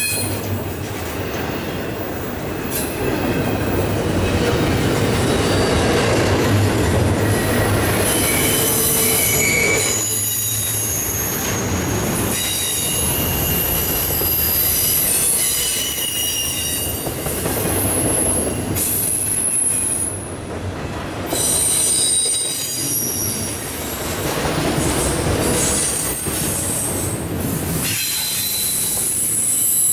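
Double-stack intermodal well cars rolling past: a steady rumble and clatter of steel wheels on rail, with high-pitched wheel squeal coming and going.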